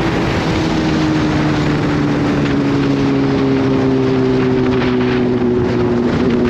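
Kawasaki Z H2's supercharged inline-four engine running under light load, its pitch sinking slowly as the revs ease off, over steady wind and road noise.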